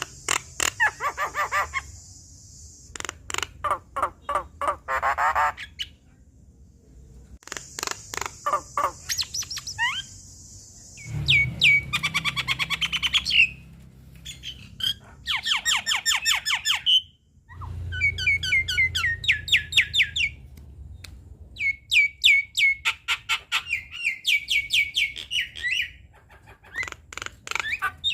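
Javan myna singing a long, varied song of rapid chattering note series, harsh hissing squawks and whistled notes, broken by brief pauses between phrases.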